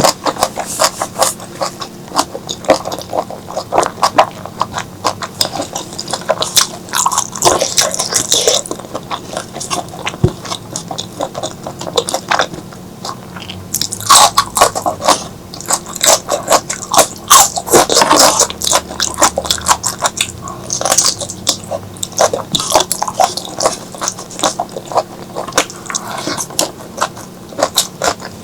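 Close-miked eating: a person chewing and biting into spicy squid and okra curry, making a rapid, uneven run of wet mouth clicks. Louder clusters come in the middle and later on.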